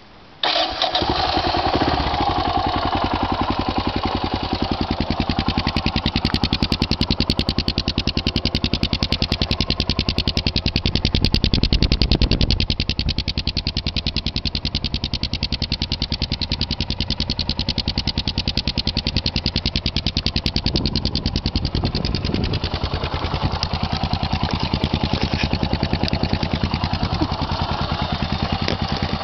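MZ Skorpion Sport 660's big single-cylinder engine starting about half a second in and then idling with an even thumping beat through an aftermarket silencer with its dB-killer baffle fitted. It is briefly louder around twelve seconds in.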